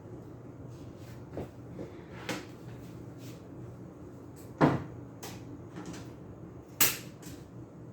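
Sharp plastic clacks and snaps as chunks are cut off a box fan blade to rebalance it, a few light ones and then two loud ones about two seconds apart, over a faint steady low hum.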